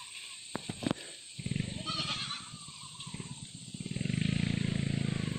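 A goat making a strange low, rattling growl-like call that starts about a second and a half in and grows louder near the end.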